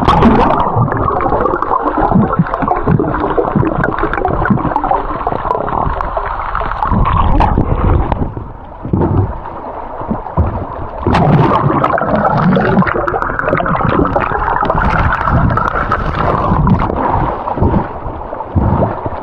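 River water heard underwater: a muffled, continuous rush and gurgle of the current against the microphone, with small knocks and a sharper knock about eleven seconds in.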